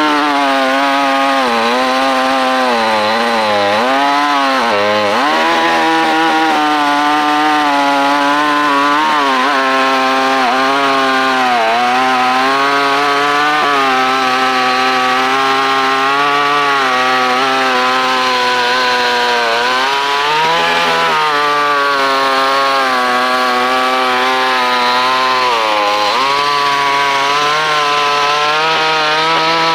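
62cc two-stroke chainsaw (GC Power) running hard at high revs, its engine pitch repeatedly sagging and recovering, most deeply around 4, 10, 20 and 26 seconds in.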